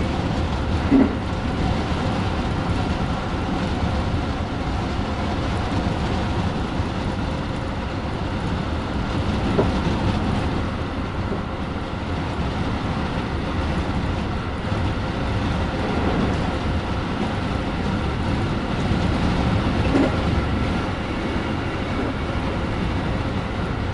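JR West 223 series electric train running at speed, heard from inside the front car: a steady rumble of wheels on rail with a faint steady hum, and a few short knocks from the track.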